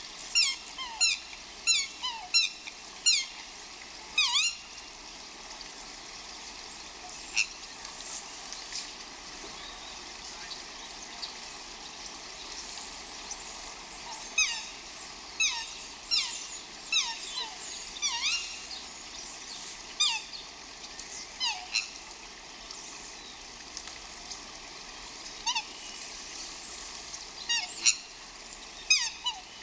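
Bird calls: short, high chirps that each sweep down in pitch, coming in quick runs of several with pauses between, over a steady background hiss.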